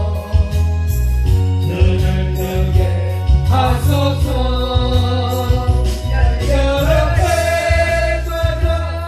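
Gospel praise song with a band accompaniment: a heavy bass line and a steady drum beat, with a singer's voice coming in strongly about three and a half seconds in.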